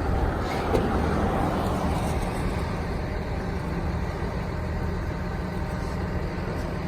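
2010 Dodge Ram 5500's 6.7-litre Cummins turbo diesel running steadily, with the PTO engaged to drive the bucket truck's hydraulic pump.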